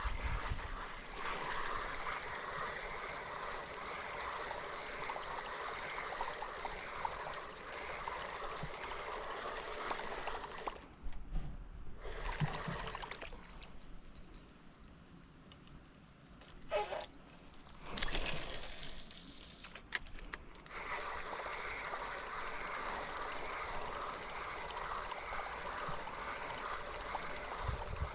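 Water trickling and gurgling in two long stretches with a quieter gap between, broken by a brief rushing sound about two-thirds of the way through.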